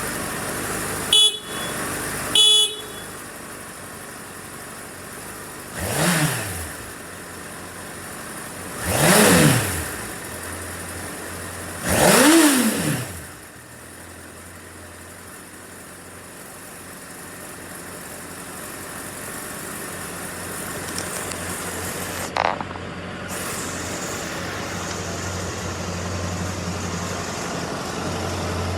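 Two short horn beeps, then a Honda CBR1000RR's inline-four engine blipped three times about three seconds apart, each rev rising and falling back, before it settles to a steady idle.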